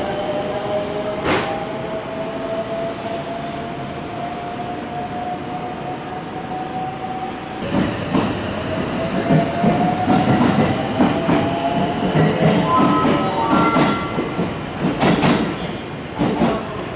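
Electric train's traction motors whining, the pitch rising steadily as it accelerates away. About eight seconds in another electric train takes over: its motor whine rises again, over a rapid clatter of wheels on the rails.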